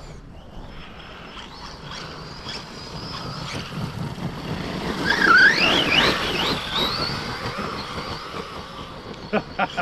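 Electric RC monster truck driving on 4S power, its brushless motor and drivetrain whining. The sound gets louder toward the middle, where the whine rises and falls several times with the throttle, then eases off.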